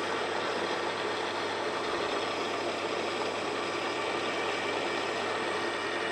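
Grinding machine running steadily: an even mechanical whir with several steady tones over a hiss.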